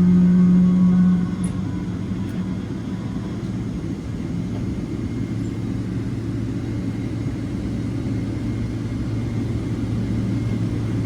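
Boeing 777-200 cabin noise during a GE90-94B engine start. A loud steady hum drops away about a second in, leaving a low rumble, and a lower steady hum comes up after about five seconds.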